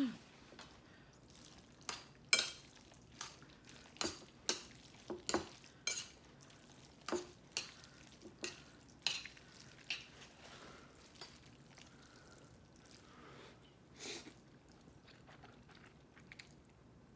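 Eating utensils tapping and clinking against a dish: about a dozen light, irregular clicks, then one more after a pause.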